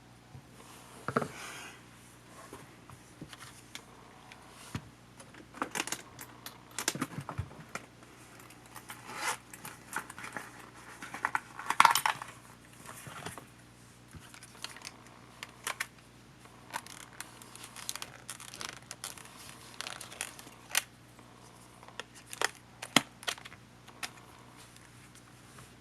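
Small clicks and clinks of tools and small metal and plastic parts as a Panasonic HA-WA10 camcorder is taken apart by hand, coming irregularly with the busiest clatter about halfway through.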